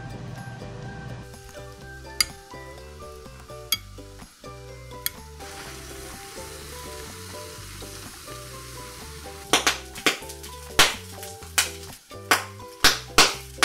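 Food sizzling in hot oil in a frying pan, with a run of loud sharp pops and crackles from about ten seconds in, over light background music.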